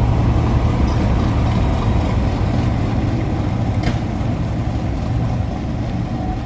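Class 37 diesel locomotive's English Electric V12 engine running with a steady low hum, slowly growing quieter, with a brief click about four seconds in.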